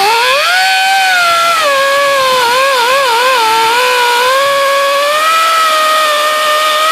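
Electric grinder running continuously on the transom fiberglass, its whine wavering and dipping in pitch as it is pressed into the work and eased off, then settling slightly lower.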